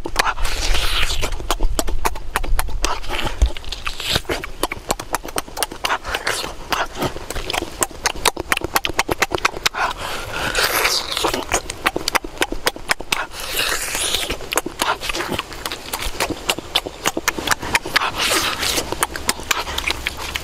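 A person chewing roasted meat with the mouth open: wet lip-smacking and chewing, a dense, continuous run of clicking mouth sounds.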